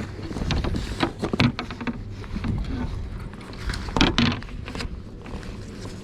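Irregular knocks, clicks and rustles of handling on a fishing kayak, a few sharper knocks about a second and a half in and around four seconds, over a steady low rumble.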